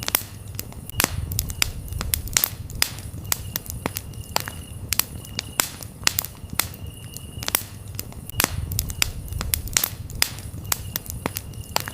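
Campfire crackling and popping, with sharp irregular snaps over a low steady rumble of the flames. A cricket chirps in short high trills every second or two.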